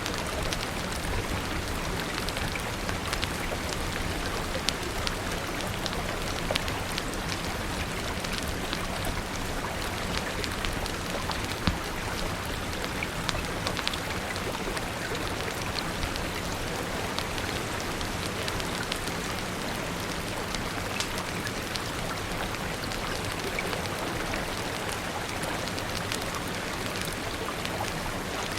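Steady rain with a fire crackling: scattered sharp pops, a few louder than the rest, over the even hiss of falling rain.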